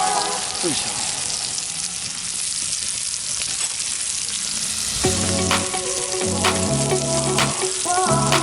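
Food sizzling and spitting as it fries in a pan, a steady dense hiss with scattered small pops. Background music comes in about five seconds in.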